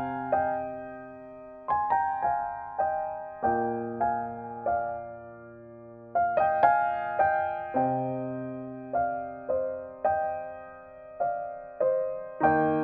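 Background music: slow, gentle piano playing single notes over held chords.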